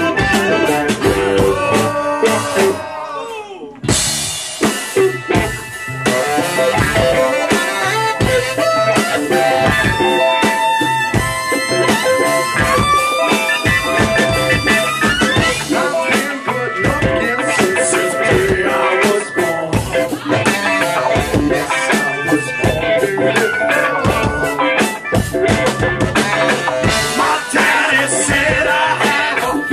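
Live rock band playing an instrumental break on drums and guitar. The band drops away briefly about three and a half seconds in, then comes back in at full volume.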